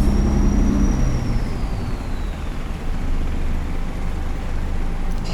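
Steady low drone of a riverboat's engine under a rushing noise of wind and water, the drone growing weaker about a second in. A faint high tone slides down in pitch over the first few seconds.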